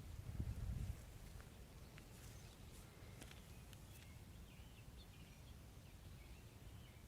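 Faint outdoor ambience with small birds chirping now and then. A low rumble, like wind on the microphone, fills the first second.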